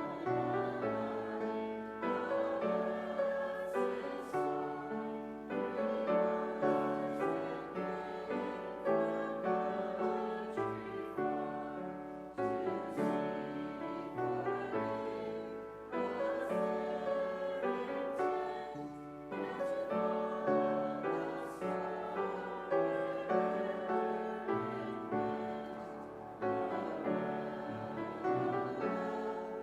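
Piano music: chords and notes struck and left to ring, each fading before the next.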